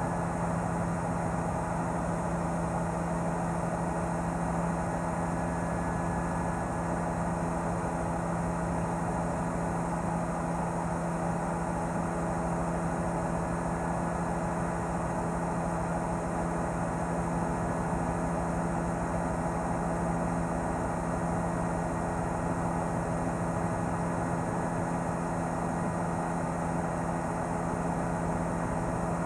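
News helicopter running steadily: a constant engine and rotor drone with several unchanging tones and no rise or fall in level.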